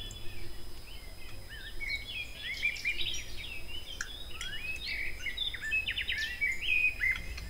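Small birds chirping in the background: a busy run of short, high chirps that starts about a second and a half in and keeps going, over a faint low hum.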